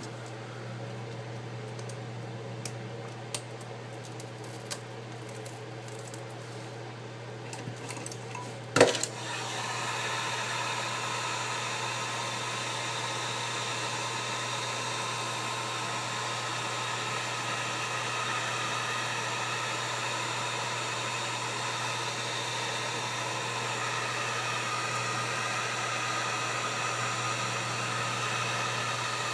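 A few small handling clicks, then a sharp click about nine seconds in as a heat gun switches on; it then runs with a steady blowing noise, heating the iPad's screen.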